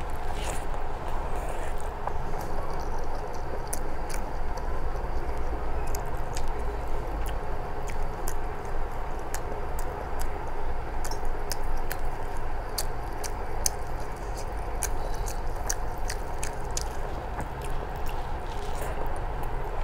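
A person eating rice mixed with mashed vegetables by hand: wet chewing and many short mouth clicks and smacks, with squishing of rice being mixed on the plate, over a steady background hum.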